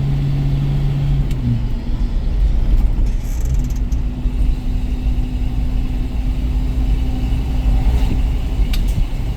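1973 International Harvester Scout II driving, its engine running with a steady low drone and road rumble; about a second and a half in, the engine note drops to a different steady pitch, as when easing off the throttle or changing gear.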